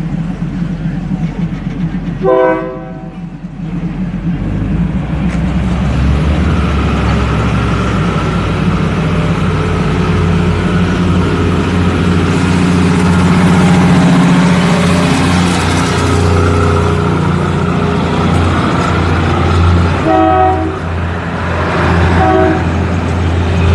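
A train running with a steady low drone, sounding short horn blasts about two seconds in and again near the end.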